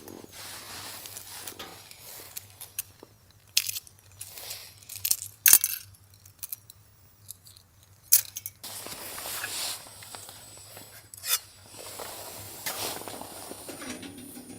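Irregular clicks, knocks and rustling of objects being handled, with a few sharper knocks, the loudest about five and a half seconds in.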